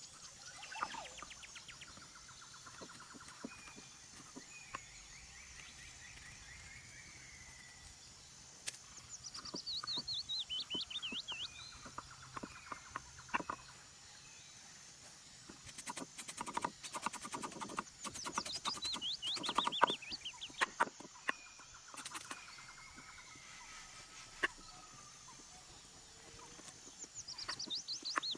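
A bird singing a high, fast-warbling phrase that falls in pitch, three times about nine seconds apart, with scattered sharp clicks and crackles between.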